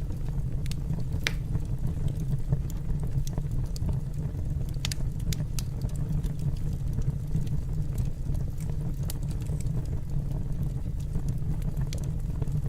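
Wood fire burning in a fireplace: a steady low roar with irregular sharp crackles and pops, the loudest about a second in and around five seconds in.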